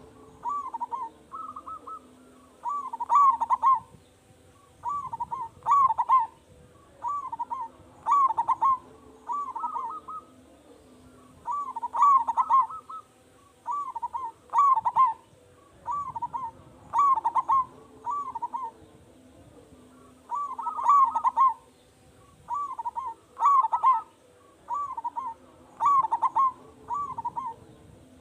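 Zebra dove (perkutut) cooing: short phrases of quick, rippling notes, repeated every one to two seconds.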